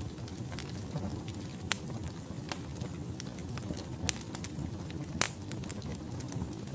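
Wood fire burning in a fireplace: a low steady rumble with irregular sharp crackles and pops from the logs, a few louder snaps among them.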